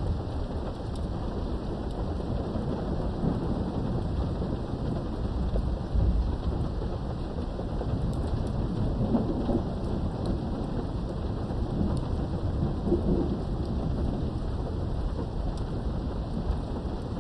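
Thunderstorm heard from indoors behind a window: steady rain with low rolling thunder rumbling through it, swelling about six seconds in and again around the middle.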